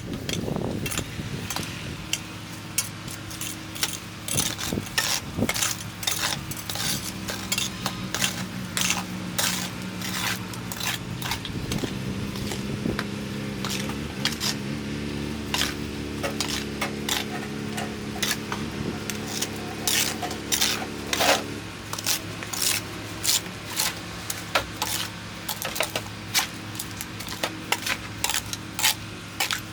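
Rapid, irregular clicks and clinks of hard objects being handled, over a steady low hum that shifts up in pitch about twelve seconds in and cuts off about two-thirds of the way through.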